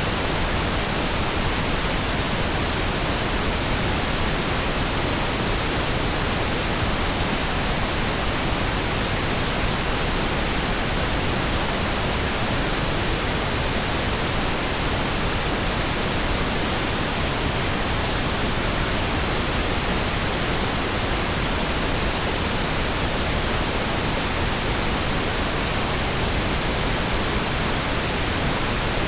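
Synthetic pink noise: a steady, even hiss across the whole range, with no changes or interruptions.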